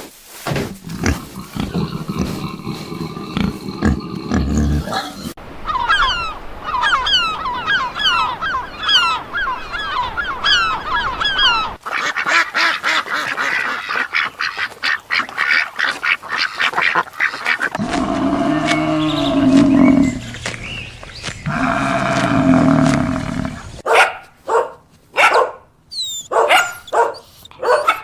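Animal calls in a string of short clips that change every few seconds, mostly bird calls of the goose or duck kind, with a long run of quick repeated chirps in the middle.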